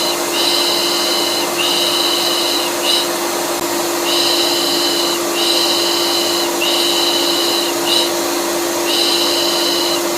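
Vacuum cleaner running steadily with a constant hum, overlaid with a rhythmic lulling hush, 'pış pış': three long shushes and a short one, repeating over and over. It is a soothing white-noise loop for colicky babies.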